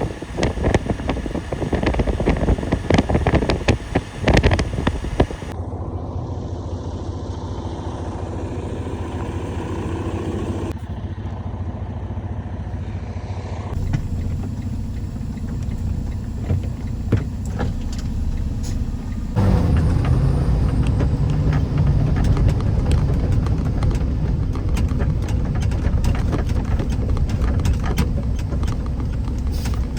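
Vehicle driving noise: a steady low rumble of engine and tyres that changes abruptly several times where clips are cut together. The first few seconds are louder, with crackling.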